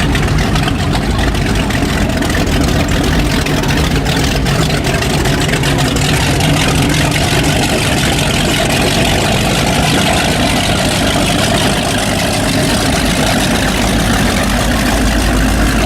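Performance powerboat engines idling and running at low speed, a steady, deep engine sound with no change in level.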